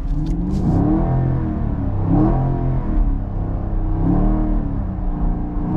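Chevrolet Camaro's 6.2-litre LT1 V8 revving up and falling back again and again, in repeated surges as the car is pushed through an attempted donut in snow.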